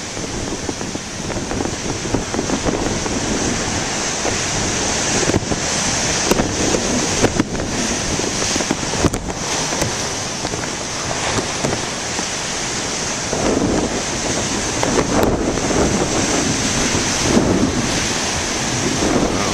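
Large storm waves breaking and washing in surf, mixed with strong wind buffeting the microphone. The wind is partly blocked by a plastic bag over the camcorder.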